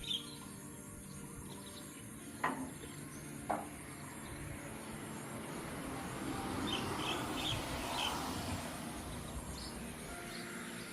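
Small birds chirping in short high calls over a steady background. Two sharp knocks about a second apart come a couple of seconds in, and a rushing noise swells and fades in the middle.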